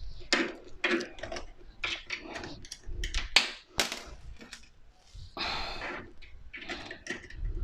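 Irregular clicks and light knocks of a hand screwdriver working a mounting screw on a dishwasher.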